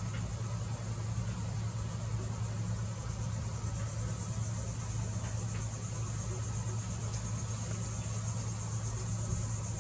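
Steady high-pitched drone of summer insects over a constant low hum.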